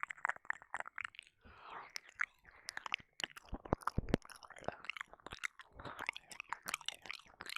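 Close-up wet mouth sounds into a binaural microphone's ears: licking, lip smacks and rapid wet clicks of tongue and saliva, broken by a few short breaths.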